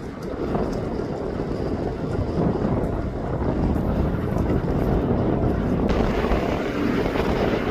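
Steady rumble of jet aircraft engines, mixed with wind buffeting the microphone.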